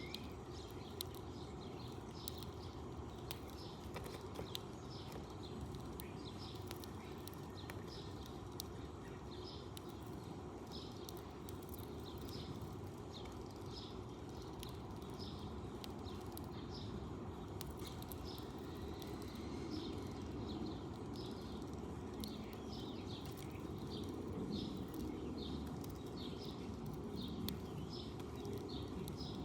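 Sparrows chirping steadily, short repeated chirps about one to two a second, over steady low background noise.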